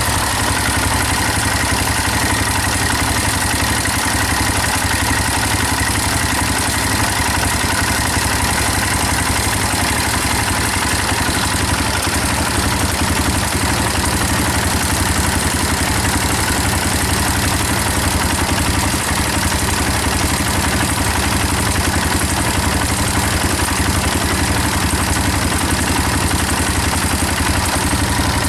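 KTM 450 cc motocross bike's single-cylinder engine idling steadily through its exhaust, with no revving.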